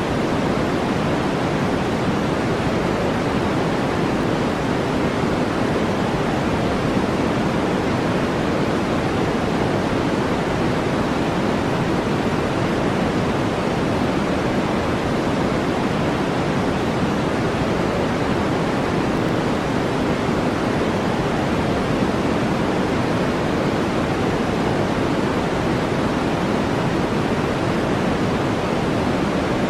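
Steady brown noise: an even rushing hiss weighted toward the low end, with no changes in level or character.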